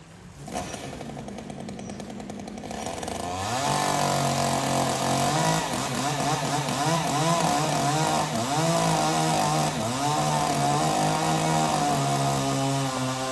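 Chainsaw engine running, coming up to full throttle about three and a half seconds in. Its pitch then repeatedly dips and recovers as it takes load, typical of cutting into wood, and it holds steadier near the end.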